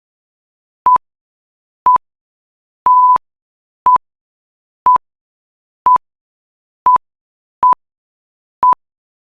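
Quiz countdown timer beeping: a short electronic beep on one steady pitch about once a second, nine in all, the third a little longer. It ticks off the 10 seconds allowed to answer each question.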